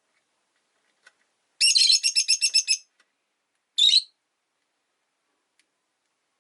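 Rosy-faced lovebird chirping: a fast run of about a dozen shrill chirps over roughly a second, then a single call about a second later.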